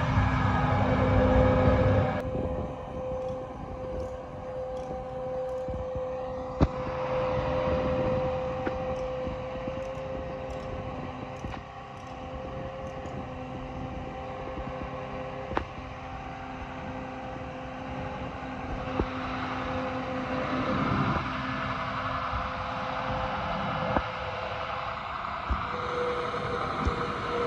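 John Deere 7310R tractor's diesel engine running at a steady idle. It is louder for about the first two seconds, then settles lower, with a few faint clicks over it.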